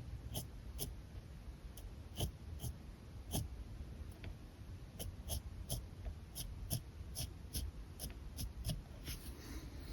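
Alcohol marker strokes on paper: a steady run of short, quick scratches, roughly two a second, irregularly spaced.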